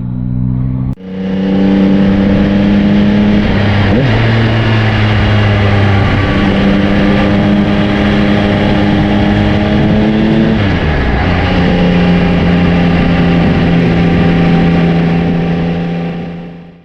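Yamaha Tracer 9's three-cylinder engine running under steady load on a climb. About two-thirds of the way through, its pitch drops briefly, then it settles at slightly lower revs before fading out at the end.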